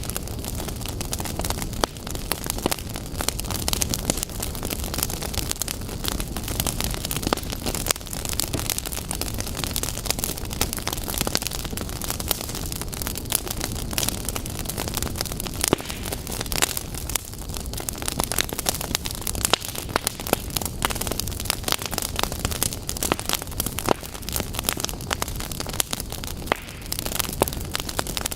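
Wood fire burning in a fireplace, crackling and popping continuously over a low rushing of flames.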